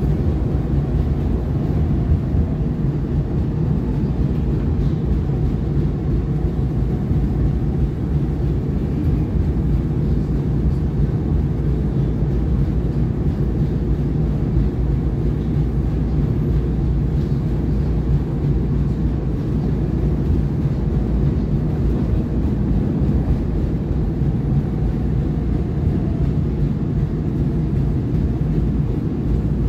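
Market-Frankford Line subway-elevated train running along the elevated track, heard from inside the car: a steady low rumble of wheels and motors with no let-up.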